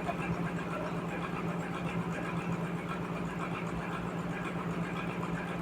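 Sawmill machinery running steadily with a constant low hum and no change in pitch or level.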